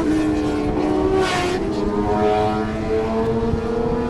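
Sport motorcycle engine running under way: its pitch falls briefly at the start, then climbs slowly and steadily as the bike accelerates.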